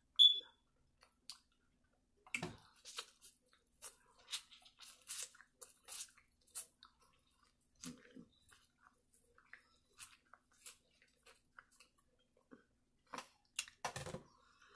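Close-up biting and chewing of corn on the cob: irregular crisp crunches and wet mouth clicks. A brief sharp high squeak right at the start, and a heavier thump near the end.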